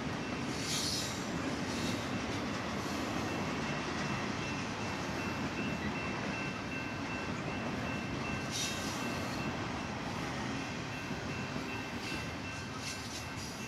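BNSF double-stack intermodal freight train rolling past, a steady rumble of steel wheels on rail with faint high whining tones. Brief high screeches come about a second in and again near nine seconds. The rolling eases slightly near the end as the last well cars go by.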